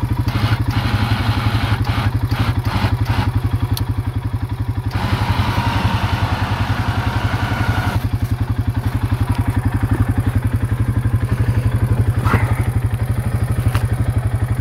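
Quad (ATV) engine running at a steady low speed in snow, with a run of clattering knocks in the first few seconds and a stretch of hiss with a higher whine in the middle.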